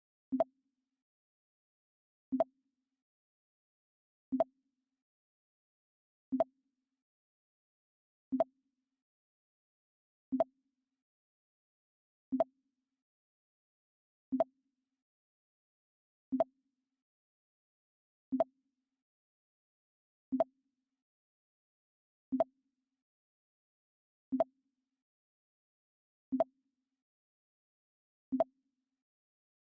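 The Mac OS X "Pong" sound effect, a short blip played over and over, once every two seconds.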